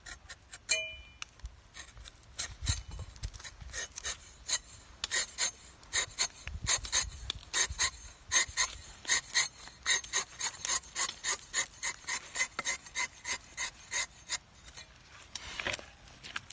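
Rubber-tapping knife shaving a thin strip of bark from a rubber tree in quick, rasping strokes, about two to three a second. Wind rumbles on the microphone now and then.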